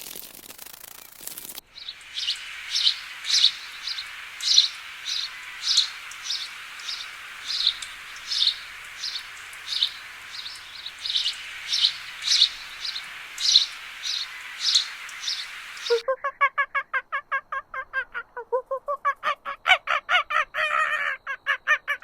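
Animal calls in two parts. First a long series of short, high bird calls repeated about twice a second over a steady hiss. After a cut about two-thirds of the way in, a different, lower animal call follows as a fast stuttering run of pulses, several a second.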